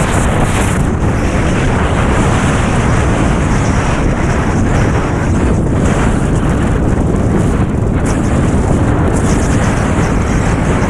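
Strong wind blasting across the camera microphone in a steady, loud rumble, with the rush of water beneath.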